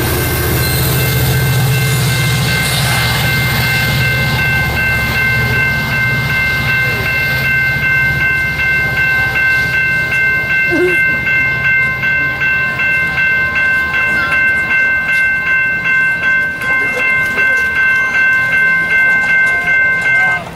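Amtrak Pacific Surfliner passenger train rumbling past a grade crossing while the crossing bell rings steadily, about twice a second. The train's rumble fades after several seconds, leaving the bell, which cuts off at the end as the crossing clears.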